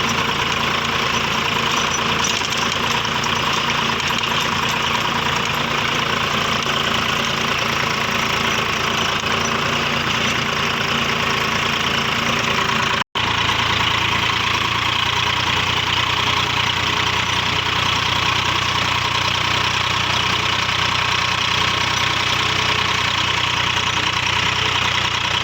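Swaraj 855 tractor's three-cylinder diesel engine running steadily. The sound breaks off for an instant about halfway through and then carries on.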